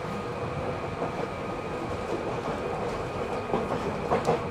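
Running sound inside a Seibu 3000 series field-chopper electric train car: a steady rumble of wheels on the track, with a few clicks over rail joints near the end.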